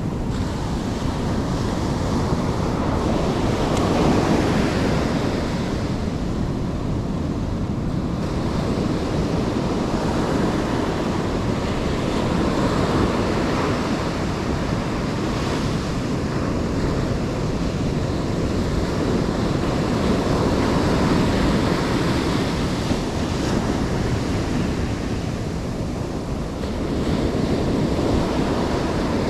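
Ocean surf breaking and washing on the beach, with wind buffeting the microphone; the wash swells and eases every several seconds as waves come in.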